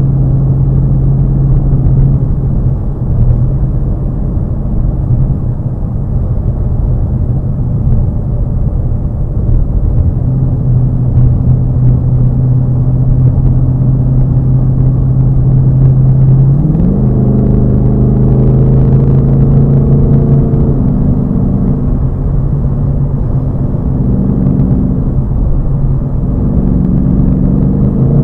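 Ford Mustang GT's 5.0 V8 and exhaust heard from inside the cabin at cruise, a steady low drone with road noise. About two-thirds of the way through, the engine pitch climbs and the note grows fuller as the car pulls harder, then eases back a few seconds later.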